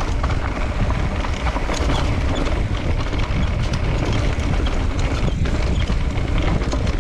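Wind buffeting the microphone and a mountain bike's tyres rolling over a dirt trail on a fast descent, with scattered small clicks and knocks from the bike rattling over bumps.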